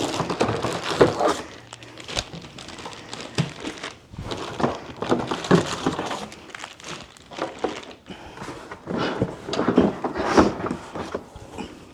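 Crinkling and rustling of packaging being handled, with scattered knocks and clicks.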